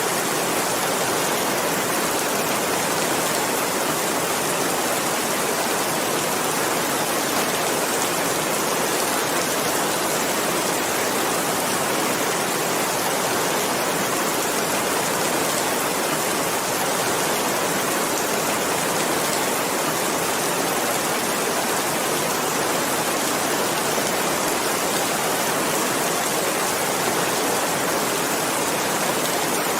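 Steady, even rain hiss without gaps or distinct single drops.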